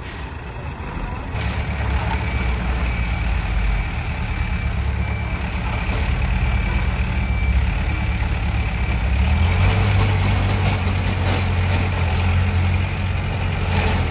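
Heavy diesel engine of earthmoving machinery running under load. It picks up about a second and a half in and works harder from about nine and a half seconds.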